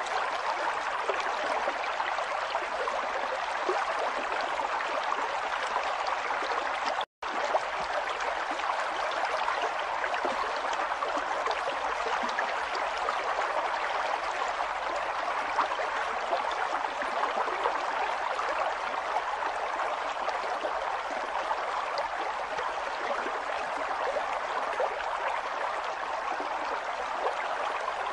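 River water flowing: a steady, even rush of a stream over rocks, with the sound cutting out for an instant about seven seconds in.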